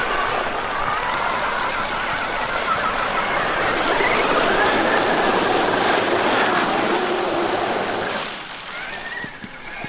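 Traxxas X-Maxx RC truck driving, its electric motor whining up and down in pitch with the throttle over a rushing noise, dropping away sharply about eight seconds in.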